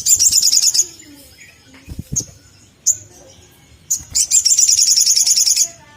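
Olive-backed sunbird calling: fast high-pitched chirping trills of about ten notes a second, one at the start and a longer one near the end, with single sharp chirps in between. A few soft low thumps sound about two seconds in.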